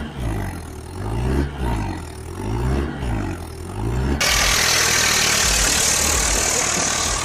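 Tractor engine revving up and falling back over and over, about once every second and a half. About four seconds in it cuts abruptly to a loud, steady rushing noise.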